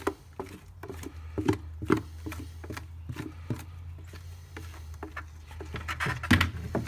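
A stick scraping and knocking irregularly inside a mixing container, scraping out the last of the two-part expanding foam, with a louder cluster of scrapes near the end, over a steady low hum.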